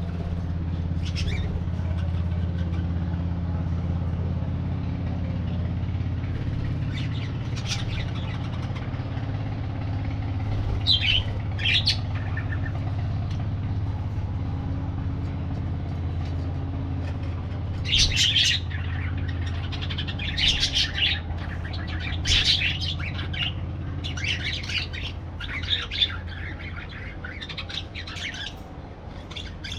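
Parakeets chirping and squawking: a few scattered calls in the first half, then a busier run of calls in the second half. A steady low hum runs underneath.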